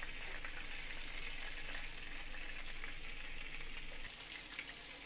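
Flour-battered cube steak strips frying in hot oil in a skillet: a steady crackling sizzle that eases a little about four seconds in.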